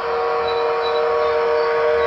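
HO-scale model Reading Consolidation steam locomotive's onboard sound system blowing one long, steady steam whistle, several tones sounding together as a chime.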